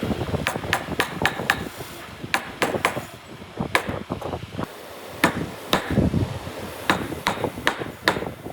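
Hammer striking repeatedly while chopping out a hand-cut dovetail joint in wood: a series of sharp knocks in short irregular clusters, with brief pauses between them.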